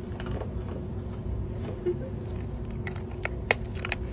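Sea otter crunching food: a run of sharp cracks and clicks in the second half, over a steady low hum.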